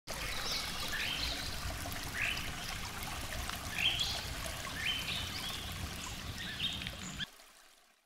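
Birds singing: short chirping phrases with quick rising and falling notes, repeated about once a second, over a steady background rush. The sound cuts off about seven seconds in.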